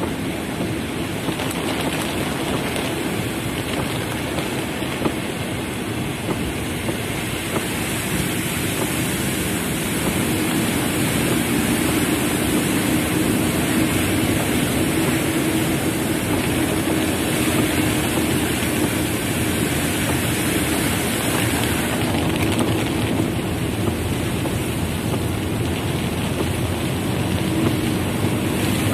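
Heavy rain falling on a car's roof and windows, heard from inside the car: a dense, steady patter of drops that grows a little louder about ten seconds in.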